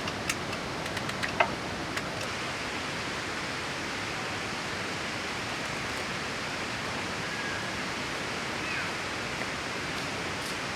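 Steady rushing noise with a few light clicks in the first couple of seconds and faint short chirps around the middle.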